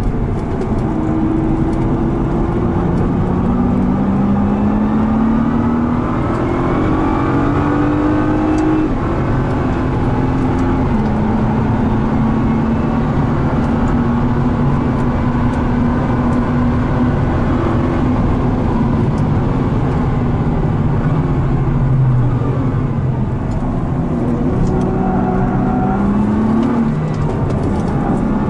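Nissan GT-R R35's twin-turbo V6 heard from inside the cabin on a circuit lap. Its pitch climbs through the gears in the first ten seconds, holds steady for about ten seconds, drops away, then rises again near the end.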